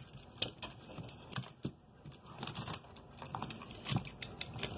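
Scattered light clicks and taps of a plastic model locomotive and its loose body shell being handled.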